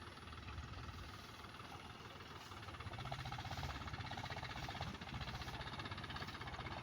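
Mahindra Yuvo 275 DI 35 hp diesel tractor engine running steadily, getting somewhat louder about three seconds in.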